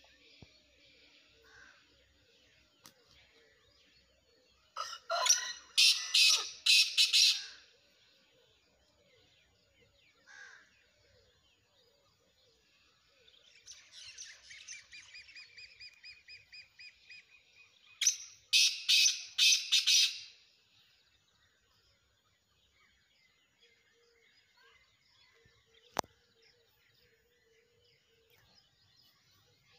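Black francolin (kala teetar) calling twice, each call a loud harsh phrase of about five quick notes, the first about five seconds in and the second about eighteen seconds in. Between them comes a quieter, fast pulsing series of notes. Faint bird chirps run underneath, and there is a single sharp click near the end.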